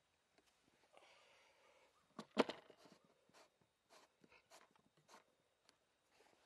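Faint scattered clicks and knocks, with a short burst of hiss about a second in and one louder knock about two and a half seconds in.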